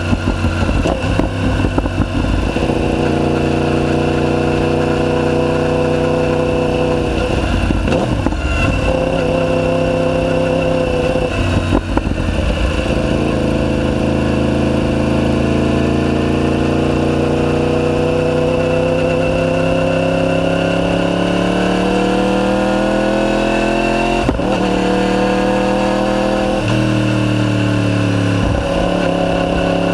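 Yamaha YZF-R1's crossplane inline-four running under load through a de-catted Akrapovic full titanium exhaust. The engine note breaks at several gear changes. In the middle the revs climb steadily for about ten seconds before an upshift drops the pitch.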